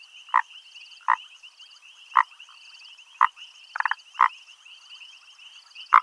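Southern foam nest frog (grey foam-nest tree frog) calling: short separate croaks about once a second at an uneven pace, one of them a rapid stuttering rattle. A steady high-pitched trill runs behind them.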